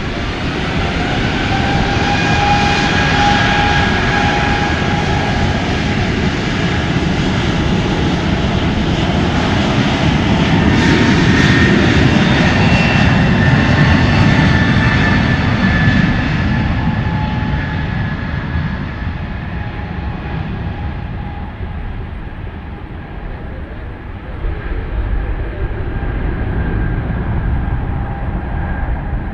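Airliner's engines passing: a steady whine with several held tones over a rush of noise, growing louder to a peak about halfway, then fading as the high tones fall away.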